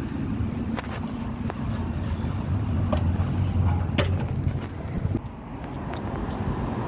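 Street traffic: a motor vehicle's engine running close by as a steady low hum, with a few sharp clicks over it.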